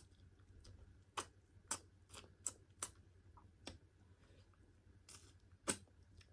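Close-miked eating: chewing mouth noises, a faint scattered run of about eight sharp wet clicks and smacks at irregular spacing, the loudest near the end.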